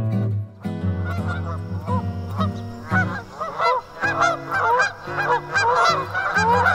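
Egyptian goose honking in a rapid series of short calls, several a second, starting about a second in. Background music with steady low notes plays underneath.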